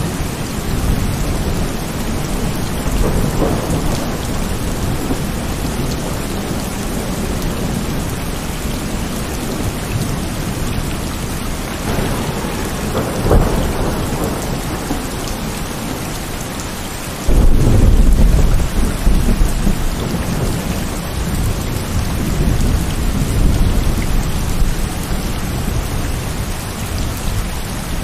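Heavy rain falling steadily, with rolling thunder. A sharper crack comes a little before halfway, and a sudden loud thunderclap past halfway rumbles on for several seconds.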